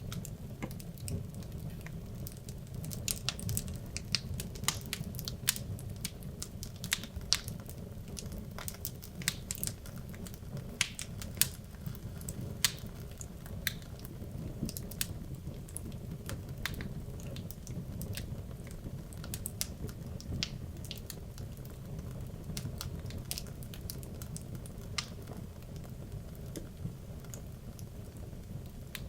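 Wood logs burning in a fireplace: a steady low rumble of flames with frequent sharp crackles and pops, several a second.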